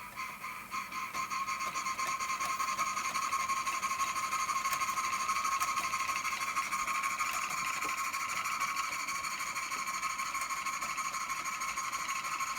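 Toy live steam engine running its belt-driven workshop accessories: a steady, rapid mechanical pulsing with a hiss. It builds up over the first couple of seconds, holds steady, then cuts off suddenly at the end.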